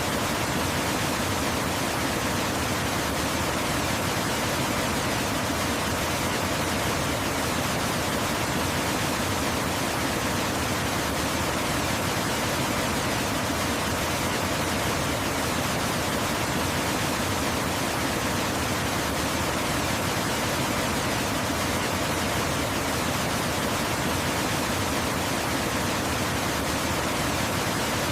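Waterfall rushing steadily: an even, unchanging wash of water noise.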